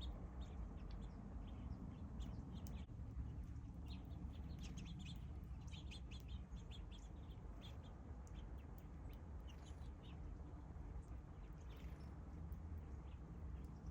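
Small birds chirping: many short, high chip notes scattered irregularly over a steady low rumble.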